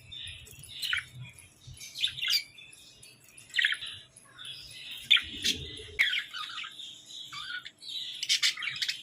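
Budgerigars chirping and squawking in short, scratchy calls, with a quick chatter of rapid clicks near the end.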